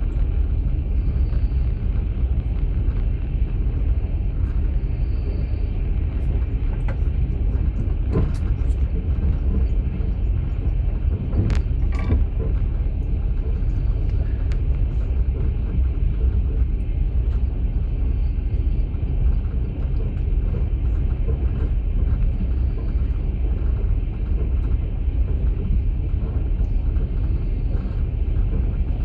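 Steady low rumble of a moving passenger train heard inside an open-plan sleeping car, with a couple of sharp knocks about 8 and 12 seconds in.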